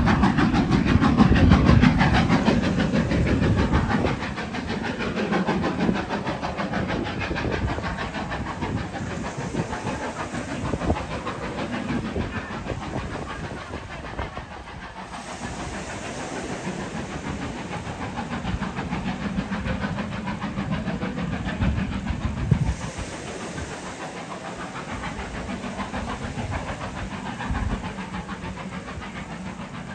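A train running past, loudest in the first few seconds, then a quieter, steady rumble.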